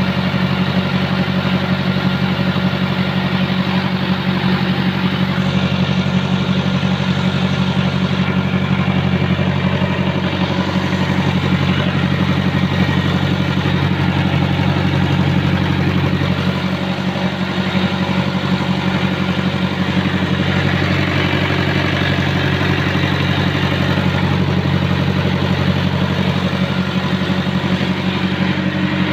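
Ricardo diesel engine of a 50 kVA generator running at a steady speed.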